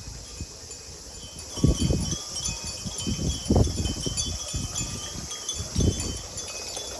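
Wind chimes tinkling with many short, scattered high notes over a steady high drone of cicadas. Low buffeting on the microphone comes and goes, loudest about 2, 3½ and 6 seconds in.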